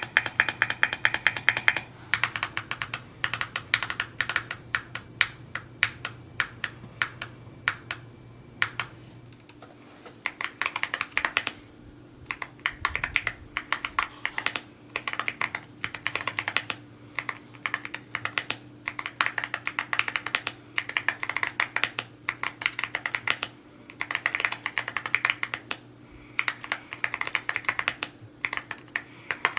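Typing on an Evo80 custom mechanical keyboard: fast runs of keystrokes clacking, broken by short pauses about ten, thirteen and twenty-three seconds in.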